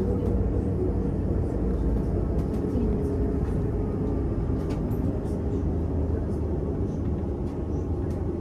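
Cabin sound of a VMZ Avangard trolleybus on the move: a steady low rumble of the running bus with a faint steady whine and occasional light rattles.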